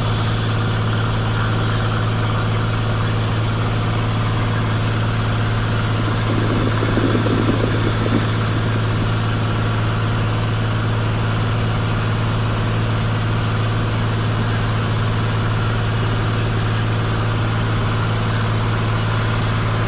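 Cessna 182 Skylane's six-cylinder piston engine and propeller in cruise, a steady loud drone with a deep constant hum. A brief muffled swell of noise comes about seven seconds in.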